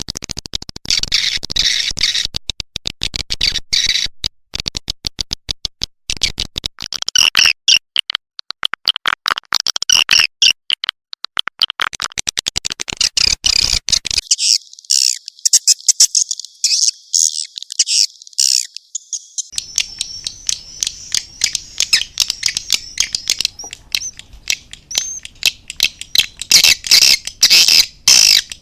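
Recorded swiftlet calls used as a swiftlet-house lure: a dense, rapid twittering of chirps and clicks from many birds. About halfway through, the sound thins for several seconds to high chirps only, then the full twitter returns.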